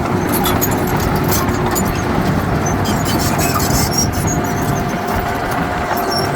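Heavy diesel earthmoving machine running steadily at work, with a faint high squeal held over the engine and many light metallic clicks.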